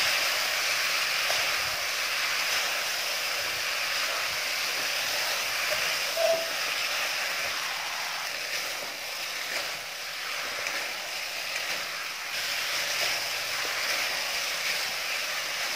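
Noodles and vegetables sizzling in a hot oiled kadhai over a high gas flame, a steady frying hiss, while they are tossed and stirred with a wooden spatula.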